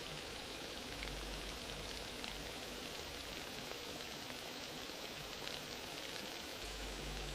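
Wood fire crackling: a steady hiss scattered with many small pops and snaps.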